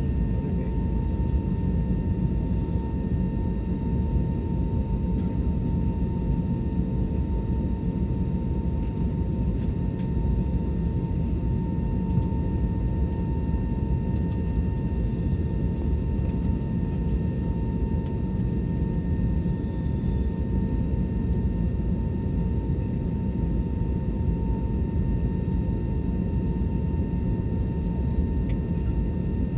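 Airbus A320neo engines and airflow: a steady, even rumble with a constant high hum.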